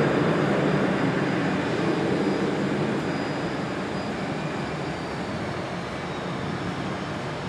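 Boeing 737-800's CFM56-7B jet engines at takeoff thrust: a steady rushing jet noise that slowly fades as the airliner moves away, with a faint high whine gently dropping in pitch.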